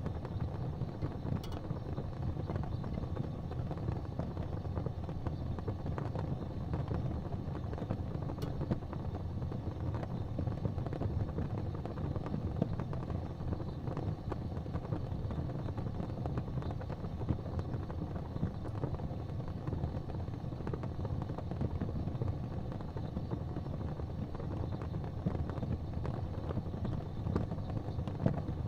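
Wood fire crackling in a fireplace, with scattered small pops over a steady low rumble.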